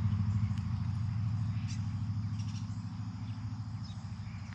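A car engine running with a low, steady rumble that fades gradually.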